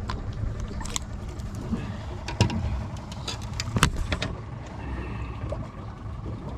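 Low steady rumble on a boat, broken by a run of sharp knocks and clicks, the loudest about four seconds in.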